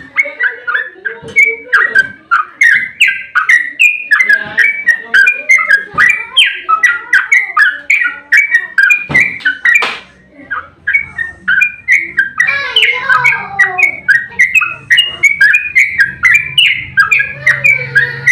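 Yellow-vented bulbul (trucuk) singing a long, fast run of bubbling, chattering notes, several notes a second with a brief pause about halfway through.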